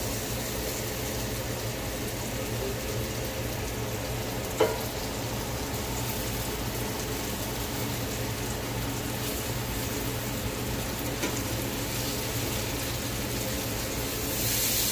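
Hamburger patties frying in a skillet, sizzling steadily in their fat, with one sharp knock about four and a half seconds in.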